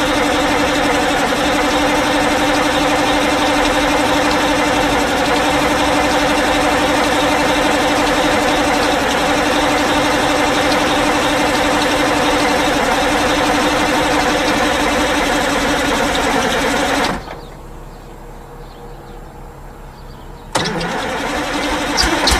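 Cold-started diesel engine running steadily and loudly, with a strong even drone. About seventeen seconds in it cuts off abruptly to a much quieter stretch. Then another engine comes in suddenly, with rapid regular pulses near the end.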